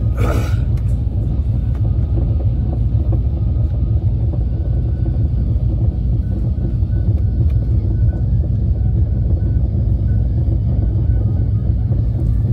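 Passenger train running at speed, heard from inside the carriage: a steady, heavy low rumble of the wheels on the track. A short hiss sounds in the first half-second.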